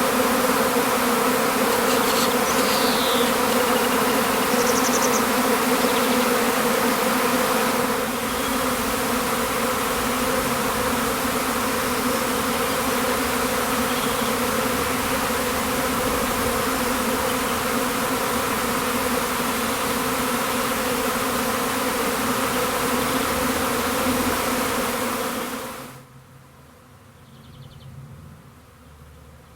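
A swarm of bees buzzing: a dense, steady drone with a hum at a few even pitches. About 26 seconds in it drops suddenly to a much fainter buzz.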